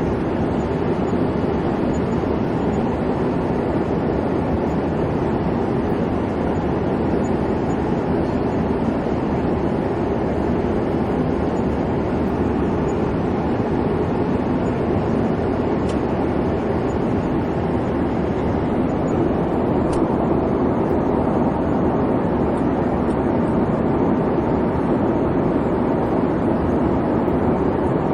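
Steady airliner cabin noise in flight: an even, low engine and airflow rumble with no changes.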